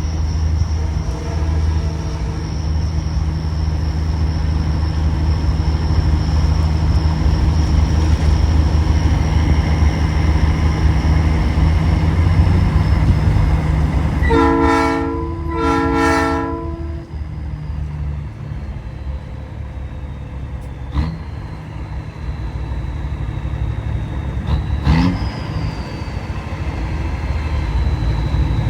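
Nathan Airchime P3 train horn on a big rig giving two short chord blasts about halfway through, over the steady drone of the truck's engine. A couple of sharp clicks come later.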